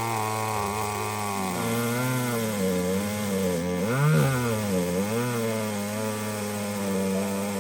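A small engine running with its pitch wavering up and down, rising and falling more sharply about four seconds in.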